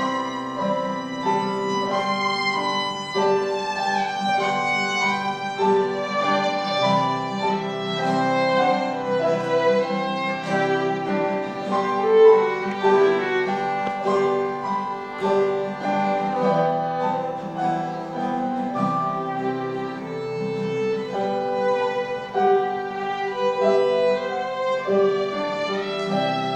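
Instrumental music led by a violin playing a melody over held lower notes.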